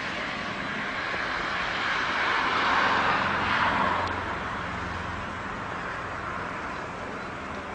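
Train running, its noise swelling to a peak about three seconds in and then easing off, over a steady low hum.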